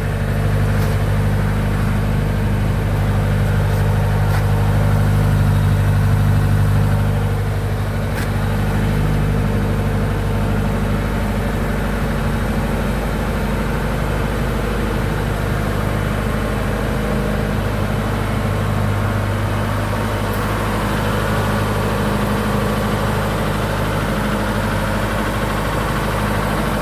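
1968 Ford Capri 1600 engine idling steadily, a little louder for a few seconds early on before settling.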